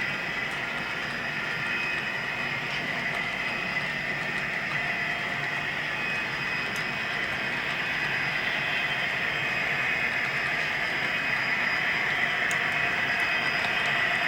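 HO scale model train running on the layout, a steady whirring and rolling noise that grows gradually louder toward the end as it draws nearer.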